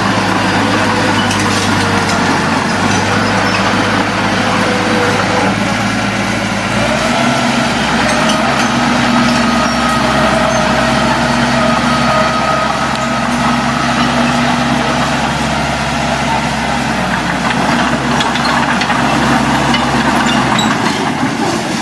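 A heavy earthmoving machine's diesel engine running steadily, its note changing about seven seconds in.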